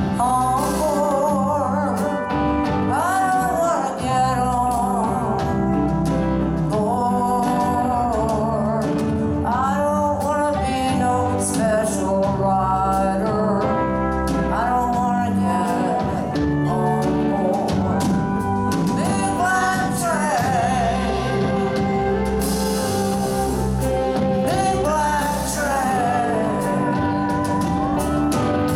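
Live country-blues band playing an instrumental passage of a slow song: a lead line bends and wavers between notes over steady bass and drums with cymbals.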